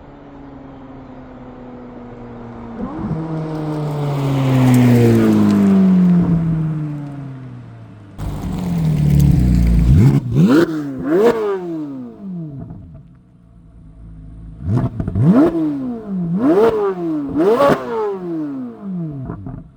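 2024 Corvette C8 Z06's flat-plane-crank V8 on its stock exhaust with the valves open. In the first half it grows loud and fades as it passes, its pitch falling. Then it is revved in sharp blips, two quick ones followed by three more, each climbing fast and dropping back.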